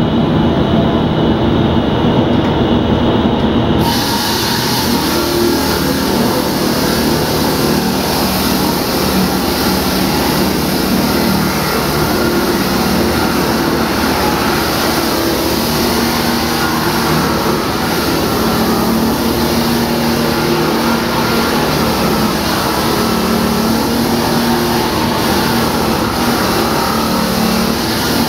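A loud engine running steadily, with a dense noisy mechanical sound over it throughout.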